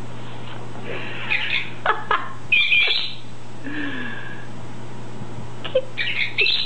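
Pet parrot squawking, chirping and whistling in short bursts: a cluster of calls about a second in, a short whistle in the middle, and another cluster near the end. A steady low hum runs underneath.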